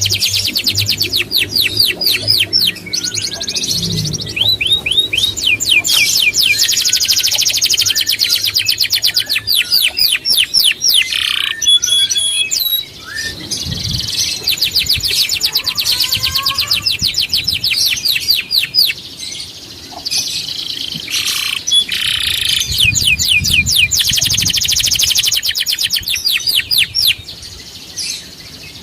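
Small songbird singing long phrases of rapid, high, repeated sweeping notes, like fast trills, broken by short pauses, the kind of song played as a masteran recording for training other cage birds.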